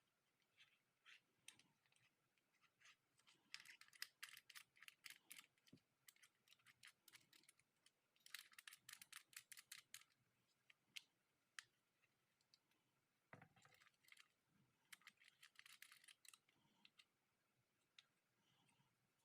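Faint runs of quick plastic clicks, about eight a second, in three runs, with scattered single taps and a soft bump between them: a small plastic item, likely the phone holder, being handled and adjusted.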